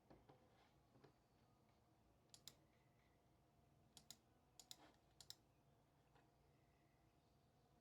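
Faint sharp clicks in four quick pairs about two and a half to five and a half seconds in, with a couple of softer taps around them, over a faint room hum.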